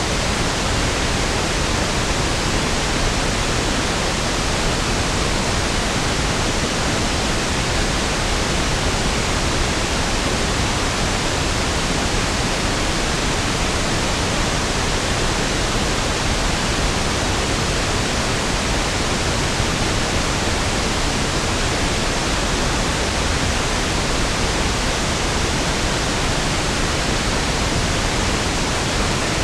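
Steady pink noise (1/f noise): an even, unchanging hiss with equal energy per octave, softer and deeper than white noise.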